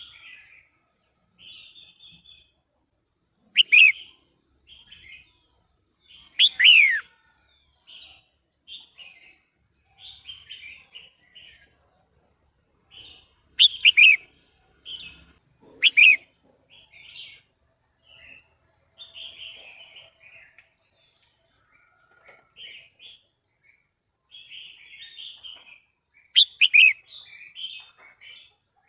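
Female red-whiskered bulbul calling: a string of soft, short chattering notes, broken at intervals by about five louder, sharp calls that slide down in pitch.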